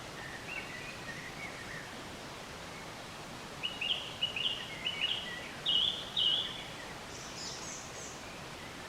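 Birds chirping over a steady background hiss: soft short chirps in the first two seconds, then a loud run of quick repeated chirps from about three and a half to six and a half seconds in, and a few higher notes just after.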